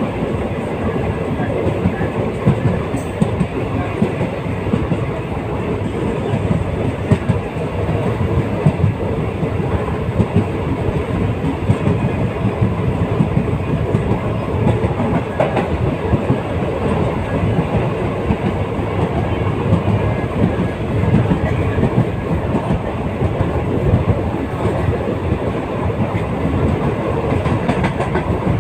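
Passenger train running steadily on the rails: continuous, even running noise of the carriages and wheels, with no pauses.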